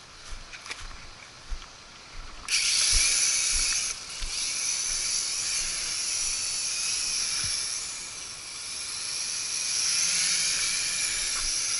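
A few faint clicks, then about two and a half seconds in the Nihui U807 quadcopter's small motors (swapped-in WLtoys V636 motors) start up suddenly with a loud, high-pitched whine as it flies. The whine eases around eight seconds and swells again shortly after.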